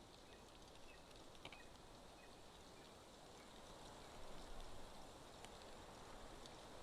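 Near silence: a faint steady outdoor hiss, with a few brief faint high chirps in the first couple of seconds and a few faint ticks later.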